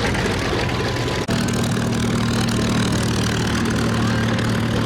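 Vintage warbird's piston aircraft engine idling with a steady, even rumble. There is a brief break about a second in, then it runs on steadily.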